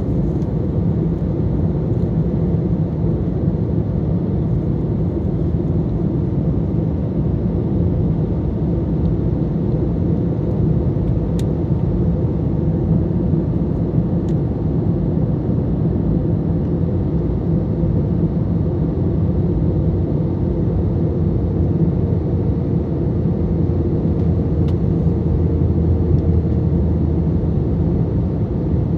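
Airbus A321 cabin noise heard from a window seat in flight: a steady low rumble of engines and airflow with a constant hum.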